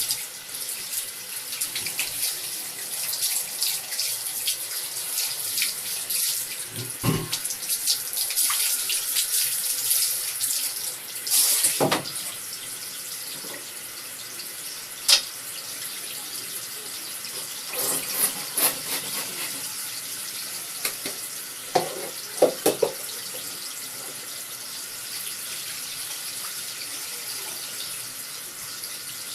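Tap water running steadily into a sink or tub during a cat's bath. A few short splashes or knocks break through now and then.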